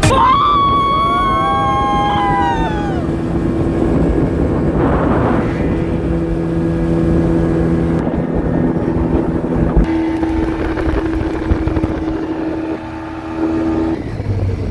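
Motorboat engine running steadily under a noisy wash of wind and water. A few falling whistle-like tones sound in the first three seconds, and the engine's note changes about ten seconds in and again near the end.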